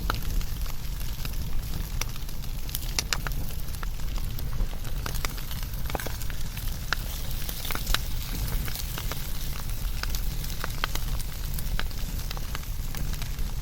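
Wood fire burning, with frequent irregular crackles and sharp pops over a steady low rumble of the flames.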